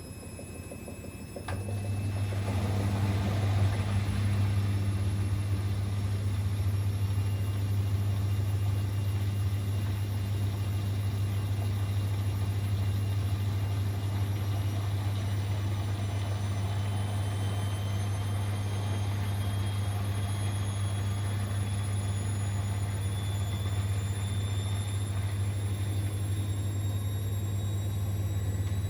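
Siemens Extraklasse XLS 140 A washing machine: a steady low pump hum comes on about a second and a half in, and the drum motor's whine rises slowly in pitch as the drum spins up, with the water draining out.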